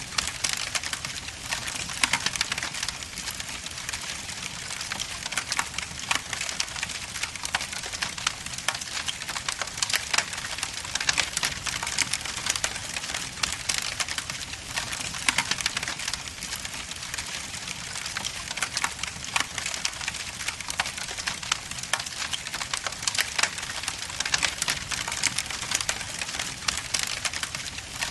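Log fire burning in a fireplace, crackling steadily with many sharp pops and snaps.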